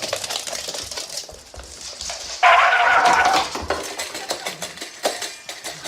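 Clattering and rattling, like dishes or cutlery, with a loud pitched animal cry lasting about a second, about two and a half seconds in.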